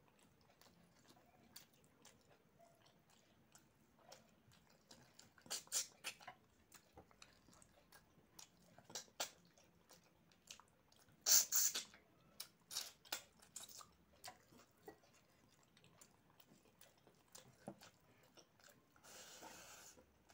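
Close-miked chewing and wet mouth smacks of someone eating rice and chicken curry by hand, in irregular clicks with the loudest cluster about halfway through. A short breathy rush near the end.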